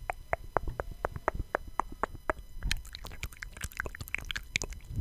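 A run of sharp clicks close to the microphone, evenly spaced at about four a second, then a quicker, irregular patter of clicks from about halfway in.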